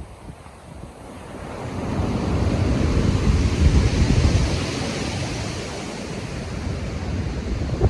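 Heavy surf in a stormy sea: a wave builds about a second and a half in, crashes with a deep rumble and washes out, then a smaller surge rises near the end.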